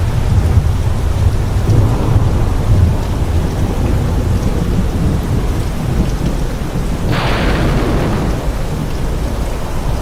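Steady heavy rain with thunder: a low rolling rumble in the first few seconds, then a sharper thunderclap about seven seconds in that rumbles away.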